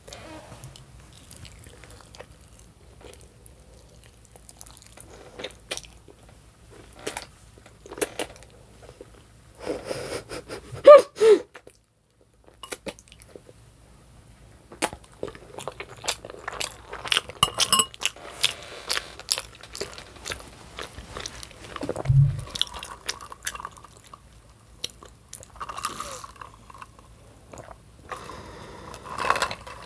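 Close-miked chewing and wet mouth sounds of someone eating a stuffed bell pepper filled with ground beef, rice and melted cheese: many small smacks and clicks, with two loud smacks about eleven seconds in. A drink is sipped through a straw near the end.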